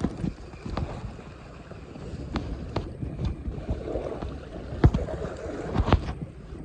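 Handling noise from a chest-mounted phone in a waterproof case: irregular knocks and rubbing as the wearer moves, over low rumbling and water noise, with two louder thumps near the end.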